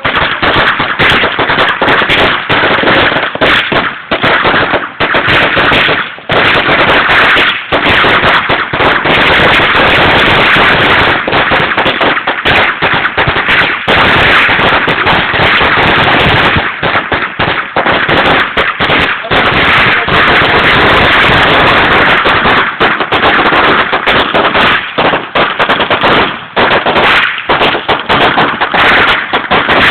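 A long string of firecrackers going off, a loud, dense rattle of rapid bangs that starts abruptly and keeps on with only a few brief lulls.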